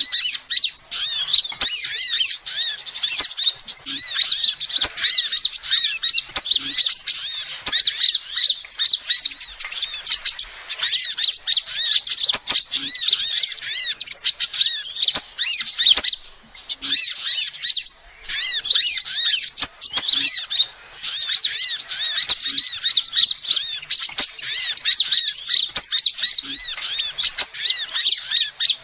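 Female sunbird calling: a rapid, nearly continuous stream of high-pitched chirps and twitters, broken by a few short pauses about halfway through.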